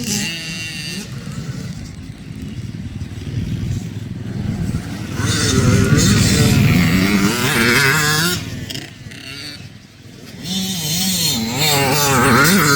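Dirt bike engines revving and accelerating, their pitch climbing and dropping through gear changes. They grow loud twice, in the middle and again near the end, with a brief lull between.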